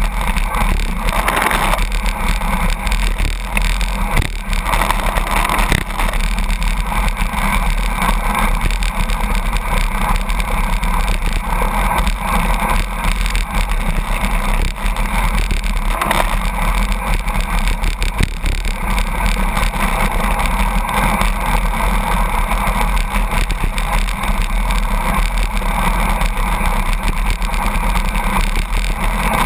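Steady, loud roar of rushing wind and truck and road noise, heard from a bicycle drafting close behind a truck at about 82 km/h.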